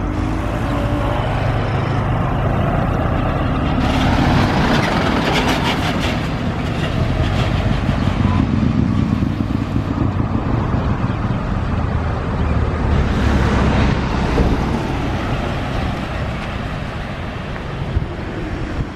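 Fire engine driving on the road, its engine rumble and tyre noise swelling louder about four to nine seconds in and again around thirteen seconds, with no siren sounding.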